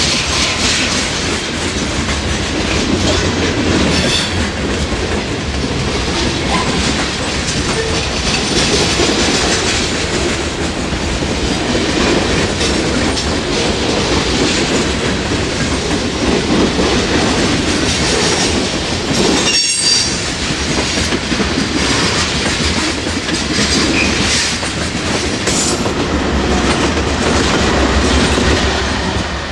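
Freight train cars rolling past at close range: steady rumbling with wheels clacking over the rail joints, and now and then a brief high wheel squeal. There is a short sudden break about twenty seconds in.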